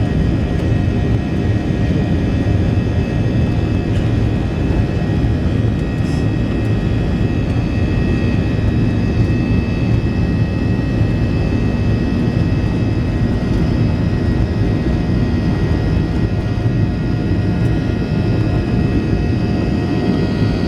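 Jet airliner engines at high takeoff power, heard from inside the passenger cabin: a steady, loud rushing noise with a constant high whine from the engine fans.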